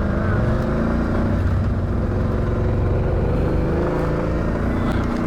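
ATV engine running steadily in low gear.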